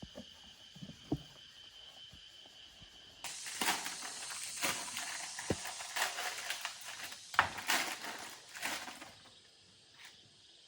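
A loud rushing hiss starts suddenly about three seconds in and runs for about six seconds, rising and falling in strength before it stops. Before it there are a faint steady high insect-like tone and a few light clicks.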